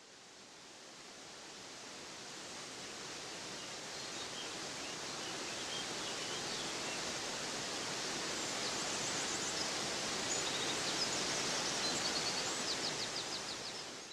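Steady rush of a waterfall, fading in slowly and fading out at the end. Faint bird chirps come over it in the second half, some in quick trills.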